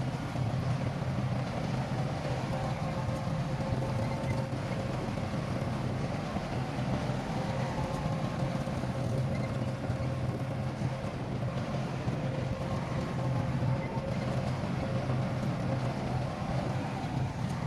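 Heavy-equipment diesel engine running steadily, a constant low drone with a faint steady whine above it.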